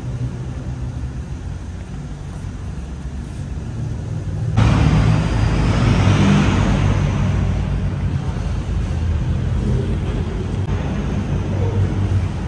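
Car engine running with a steady low rumble. About four and a half seconds in, a sudden louder rush of road or wind noise comes in and stays.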